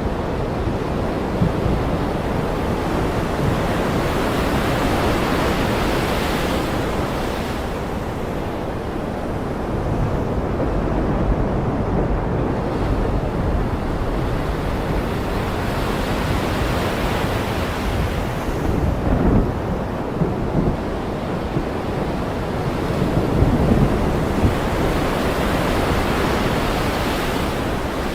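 Ocean surf washing in and drawing back in slow swells about every ten seconds over a steady roar. Low rumbles of thunder come twice in the second half.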